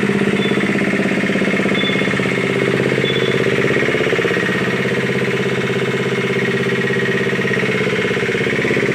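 Piaggio Ape three-wheeler's single-cylinder engine running steadily at idle with a fast, even chugging pulse, kept running for an engine carbon-cleaning (decarbonising) service.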